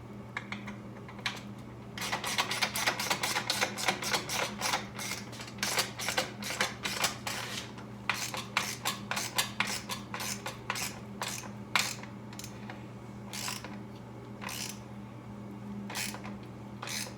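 Rapid light metallic clicking and tapping of hand tools on small nuts and screws as they are fastened, several clicks a second for about ten seconds, then sparser clicks, over a steady low hum.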